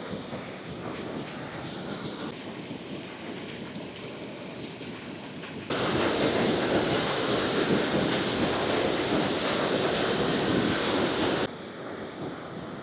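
Steady rushing of water at the Jägala waterfall. It becomes much louder and fuller for about six seconds in the middle, starting and stopping abruptly.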